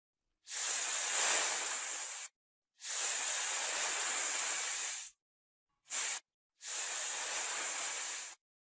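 Snake hissing: a long hiss, a second long hiss, a brief short one, then another long hiss, each cut off by complete silence.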